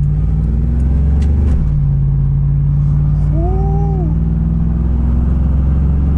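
Pickup truck's 4.8-litre V8 engine running at cruise, a steady low drone heard from inside the cab, its pitch shifting once about a second and a half in. A short tone that rises then falls sounds around the middle.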